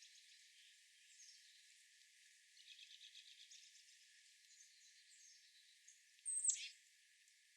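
Wild birds calling: faint chirps, a quick trill about three seconds in, and one loud, sharp note sliding steeply down in pitch near the end.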